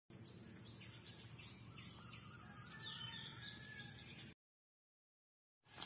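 Faint outdoor ambience: a few short bird chirps over a steady high hiss, cutting to dead silence about four seconds in.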